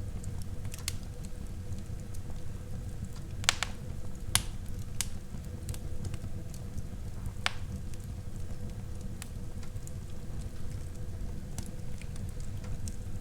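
Wood fire burning in a fireplace: a steady low rumble of flames with scattered sharp crackles and pops from the burning logs, the loudest two a little under a second apart near the middle.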